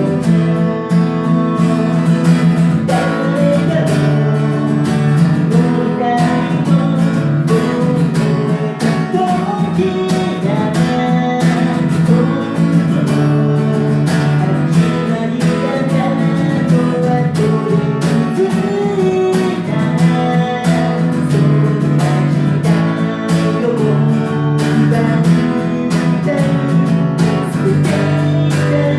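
Acoustic guitar strumming steadily through a song, with a melody line over the chords.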